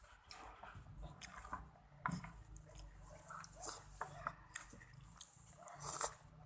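A person chewing a mouthful of Thai spicy seafood salad with squid close to the microphone: faint, wet chewing with small mouth clicks.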